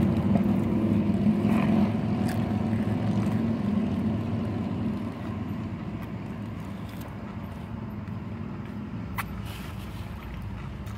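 Low, steady motor-vehicle rumble heard from inside a car, easing off after about five seconds, with a few faint clicks.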